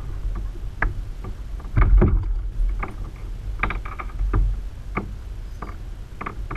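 Irregular knocks and clicks of gear and handling against a plastic kayak, over a steady low rumble of wind on the microphone.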